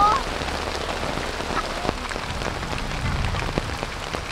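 Heavy rain falling steadily, with scattered sharp taps of individual drops close by.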